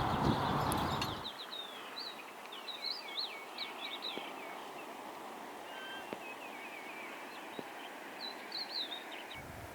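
Birds chirping in several short bouts of quick, rising and falling calls over a quiet background. A low rumble cuts off about a second in and comes back just at the end.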